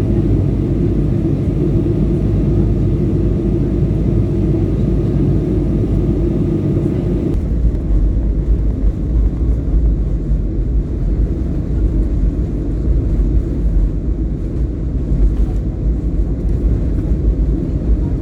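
Airliner noise, a loud steady rumble of engines and rushing air. About seven seconds in, the hiss thins and the deep rumble grows stronger.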